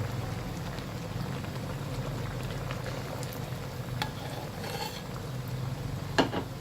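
Chicken-feet green curry bubbling in a pot over a steady low hum, with a few light clinks and a sharper knock near the end.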